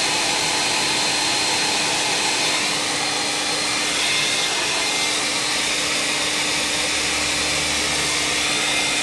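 Small electric blower motor running steadily: an even rush of air with a steady hum under it.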